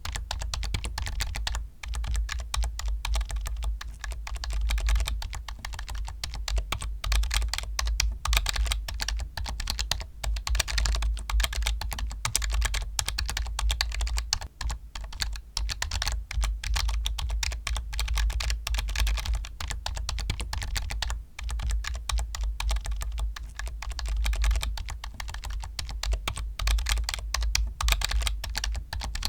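Steady, rapid typing on a computer keyboard, a dense run of key clicks broken by a few brief pauses.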